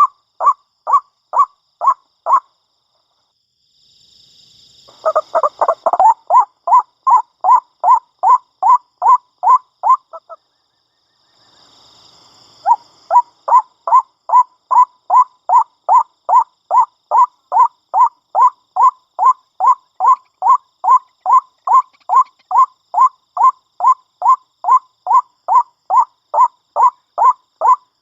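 White-breasted waterhen (ruak-ruak) giving its repeated croaking call, one note after another at about two to three a second. The calls break off twice and resume after a short hiss.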